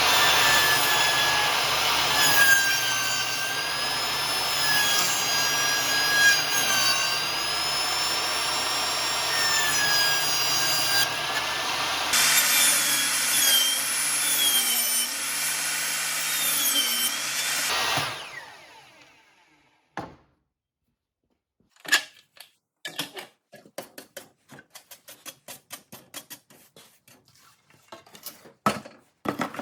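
Power woodworking tool cutting wood, its high whine dipping and recovering as it takes load; it winds down and stops near the two-thirds mark. Scattered light clicks and knocks follow.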